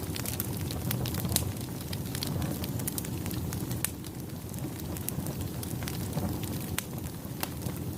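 Large bonfire burning: a steady low rush of flames with many sharp, irregular crackles and pops.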